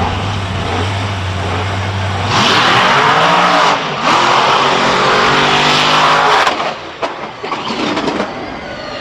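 Monster truck engine running with a low, steady rumble, then revving hard for about four seconds with its pitch bending up and down and a brief lift in the middle, before easing off.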